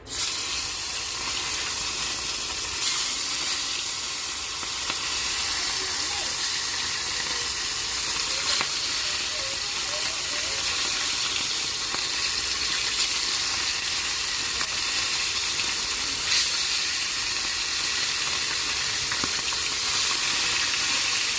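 Steady sizzle of food frying in a hot pan, with a few faint pops.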